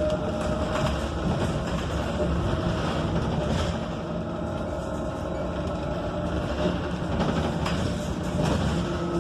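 Ride noise inside a Proterra Catalyst BE35 battery-electric bus with no HVAC running: steady road and tyre rumble with body rattles and clicks. A thin electric drive-motor whine is heard at the start and fades out within the first second.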